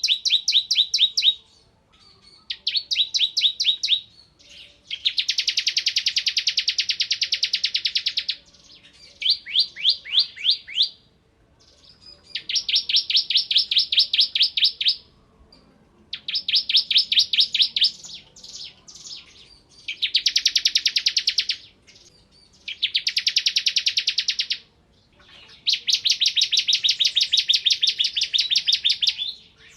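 Bar-winged prinia (ciblek kristal) singing its rapid 'ngebren' rattle: fast machine-gun trains of sharp, high chirps in bursts of one to three seconds, repeated again and again with short pauses between.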